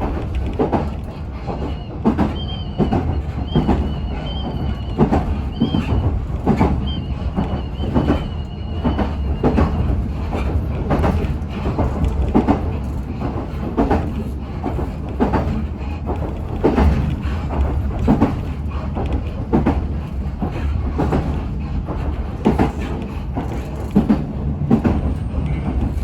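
Electric local train running between stations, heard from inside the car: a steady deep rumble with wheels knocking over rail joints about once a second, and a faint high wavering squeal from about two to ten seconds in.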